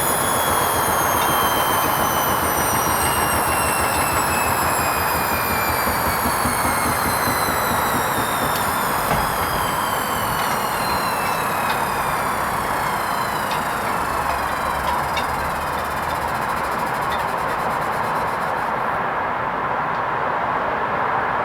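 Hoover Vision HVP16 washing machine spinning down: the motor's whine falls steadily in pitch as the drum slows from its spin, over a steady rushing drum noise, with a few faint clicks midway. The whine fades out near the end as the spin winds down.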